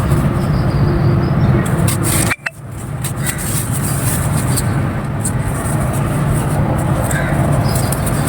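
Dry clay crumbling: a run of short, crisp crackles over a steady low rumble, broken by a sudden cut about two and a half seconds in.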